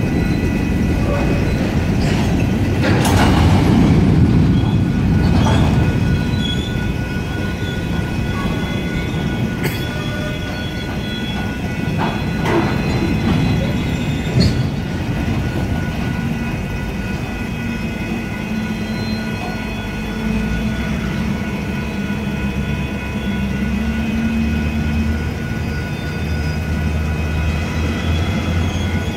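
Freight cars rolling through a grade crossing, wheels rumbling and clacking over the rails, with short wheel squeals a few times in the first half. The crossing's electronic bells ring steadily over it.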